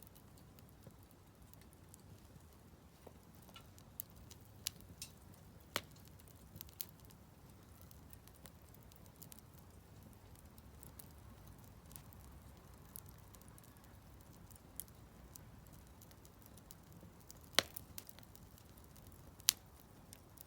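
Split firewood burning in a Solo Stove Campfire stove: faint, occasional sharp crackles and pops over a low steady rush of the fire, the two loudest pops near the end.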